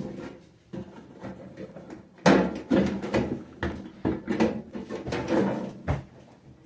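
Knocks and clatter of a microwave's parts being handled and pried at during disassembly: a quick run of sharp knocks with short ringing, starting about two seconds in and stopping shortly before the end.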